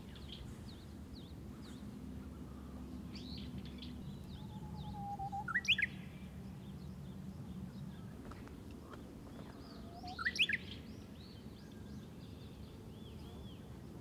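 Wild birds chirping and singing: many short high chirps, and two louder quick rising phrases about five and a half and ten seconds in, over a low steady rumble.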